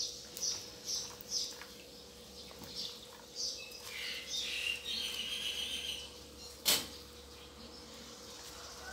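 Small birds chirping in short, scattered bursts, busiest around the middle, over a faint steady hum. A single sharp click comes about two-thirds of the way through.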